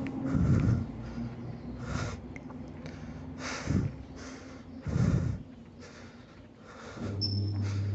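Kone lift cabin making a strange, unexplained noise that repeats about every one and a half seconds. The rider cannot tell what it is, and calls such noises the lift's weird sounds when going down. A steady low hum starts up about seven seconds in.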